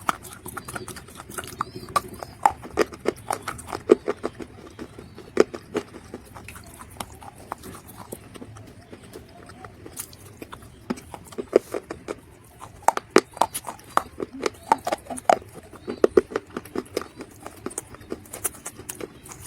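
Dry mud crunching and crackling close up, a run of sharp irregular snaps that thins out for a few seconds in the middle and turns dense again.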